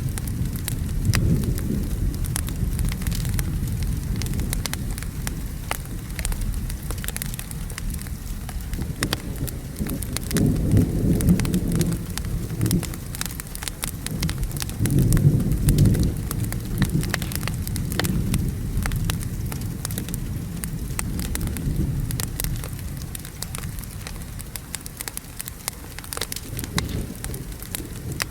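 Steady rain with rolling thunder that swells about ten seconds in and again about fifteen seconds in, and a wood fire crackling with frequent sharp pops.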